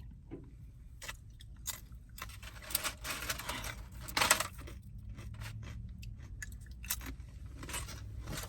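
Chewing and crunching food close to the microphone, with scattered mouth clicks and rustles and one louder crunch near the middle.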